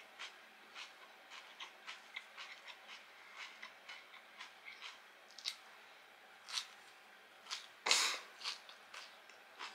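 A person chewing crunchy food close to the microphone: irregular small crunches and clicks, with one louder, sharper noise about eight seconds in.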